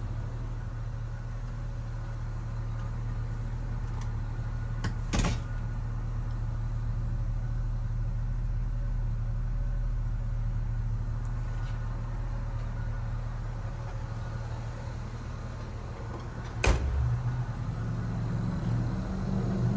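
1976 Chevrolet Blazer's engine idling steadily, with two sharp knocks: one about five seconds in, and a louder one near the end.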